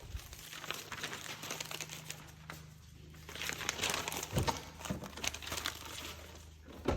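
Thin plastic window-tint film crinkling and crackling irregularly as it is handled, heaviest in the middle, with a couple of light knocks near the end. A steady low hum runs underneath.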